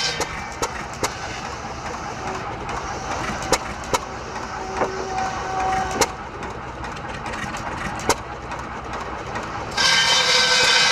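5 HP Sandwich hit-and-miss gasoline engine running a firewood buzzsaw, firing in sharp pops at uneven intervals while the blade spins free. Near the end the circular buzzsaw blade cuts into wood with a loud, steady hissing noise.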